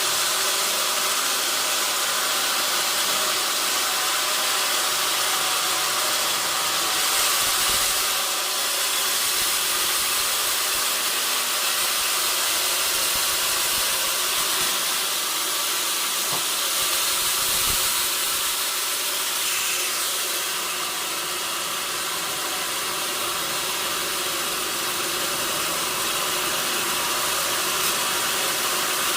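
Sawmill machinery running steadily: a dense, loud hiss over a constant machine hum, easing slightly a couple of times.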